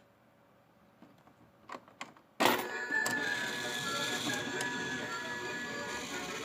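Mini toy claw machine: a few small clicks, then about two and a half seconds in it starts up with a sudden loud burst of electronic tune and mechanical whirring that carries on steadily.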